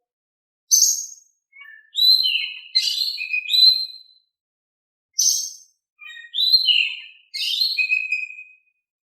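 Oriental magpie-robin singing: a series of short phrases of clear whistles and quick chirps, each a second or two long, with brief silent pauses between them.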